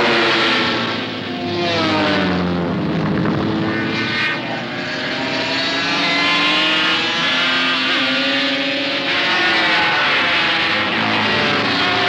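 Racing motorcycles at full speed, several engines at high revs passing in turn, each sound rising and then dropping in pitch as it goes by.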